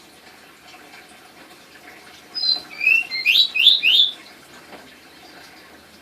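Pied bushchat singing one short song phrase, about two seconds in: a quick run of about five sharp, rising whistled notes lasting under two seconds.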